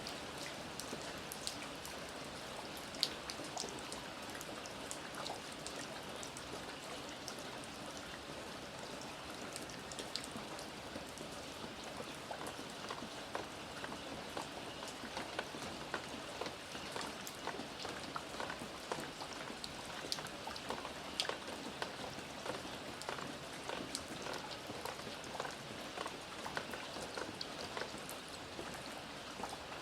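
Steady rain falling, with many individual drops ticking sharply on a hard surface over the even hiss of the downpour.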